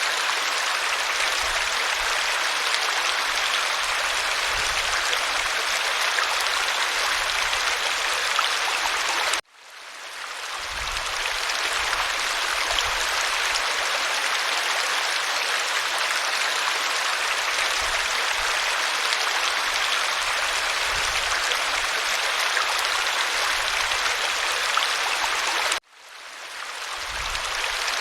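Waterfall rushing as a steady, dense hiss of falling water. Twice, about nine seconds in and again near the end, it cuts out abruptly and fades back in over a second or two: the joins of a looped recording.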